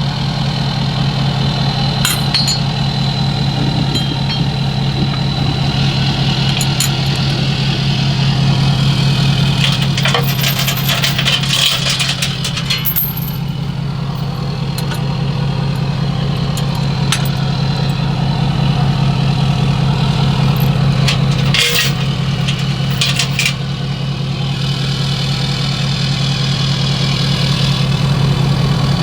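Vehicle engine idling steadily, with clusters of clicks and knocks about ten seconds in and again about twenty-one seconds in.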